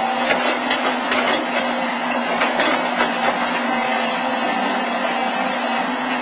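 A machine running steadily with a constant low hum, marked by a few light clicks and knocks.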